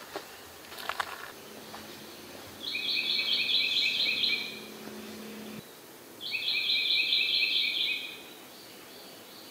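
A songbird singing two phrases of rapid repeated notes, each just under two seconds long, about two seconds apart.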